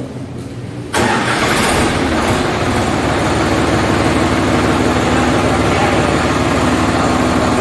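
Sonalika DI 745 tractor's diesel engine starting about a second in, then running steadily.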